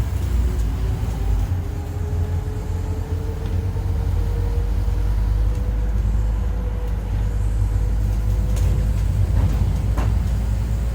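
Scania N230UD double-decker bus under way: a low rumble with a howling whine that rises in pitch over the first several seconds and then holds steady. The uploader thinks the howl sounds like a dodgy bearing or worn-out tyres. A single sharp click about ten seconds in.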